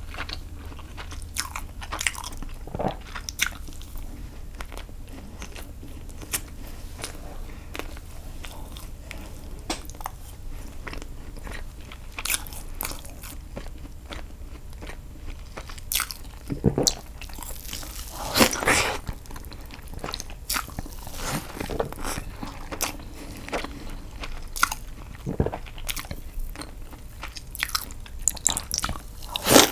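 Close-miked eating of castella sponge cake dipped in milk: irregular wet chewing and biting sounds with mouth clicks and smacks. A louder cluster comes a little past halfway.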